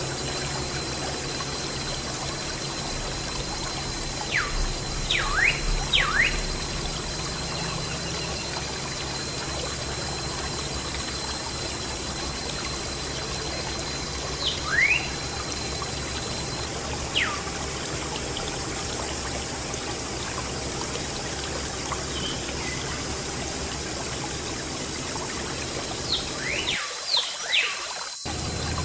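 Water pouring and trickling steadily from a miniature DIY water pump. Short sharp chirps cut in a few times.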